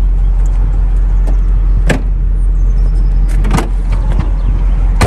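BMW X5 (E53) V8 engine idling steadily, with a few sharp knocks over it.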